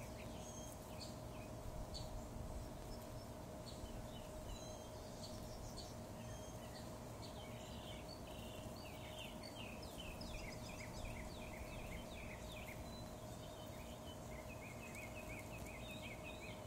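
Faint birdsong from several birds: quick runs of short, falling chirps, busiest in the middle and near the end, over a steady hum.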